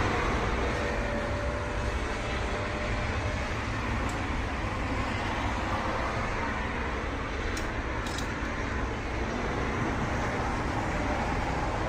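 Lexus ES300's V6 engine running steadily, with two short sharp clicks about seven and a half and eight seconds in.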